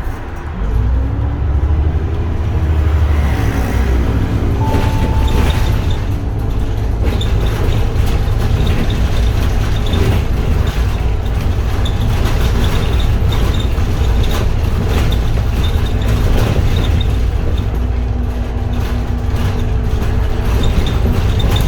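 Ride sound of a 2022 Edison Motors Smart 110G CNG low-floor city bus under way, heard from inside: its GX12P natural-gas engine and ZF Ecolife automatic give a steady low rumble with road noise. The drone rises in pitch for a couple of seconds soon after the start as the bus picks up speed. There is a short steady beep about five seconds in.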